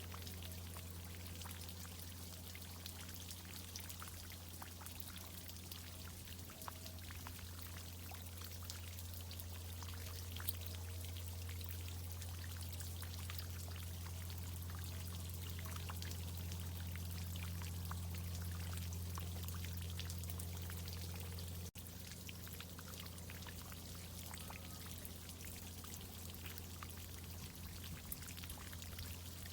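Water from a tree-watering irrigation system pouring and dripping, a fine spatter of droplets over a steady low hum that runs throughout.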